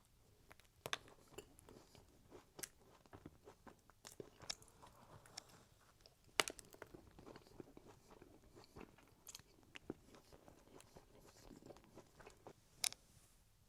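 Close-miked eating of a cookie: quiet chewing broken by scattered sharp crunches, the loudest about six seconds in and again near the end.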